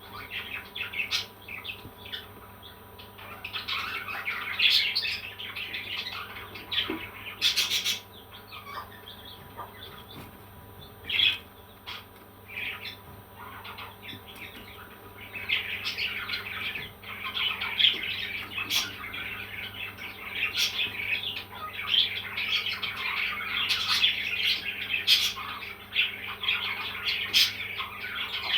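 Pet parrots chirping and squawking in quick short calls, scattered at first and almost continuous through the second half, with a few sharp clicks among them.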